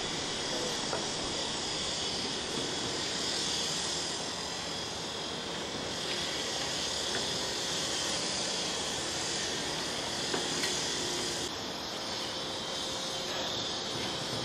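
Steady whirring hiss of an old tower crane's machinery running on the upper works, with a slight change in tone about eleven seconds in.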